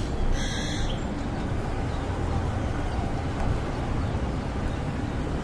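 Street ambience: a steady low rumble of traffic and city noise, with one short high-pitched chirp less than a second in.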